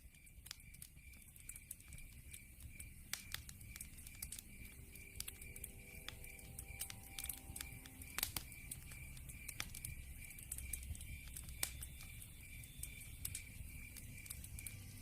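Log fire crackling with frequent sharp pops over a low rumble of flames, fading in over the first few seconds. Behind it there is a steady, evenly pulsed high chirping, a night-time insect sound.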